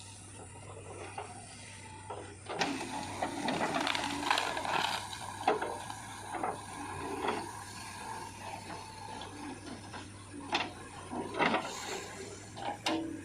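Irregular mechanical clicking and rattling that starts about two and a half seconds in, busiest for a few seconds, then comes as scattered sharp clicks near the end, over a steady low hum.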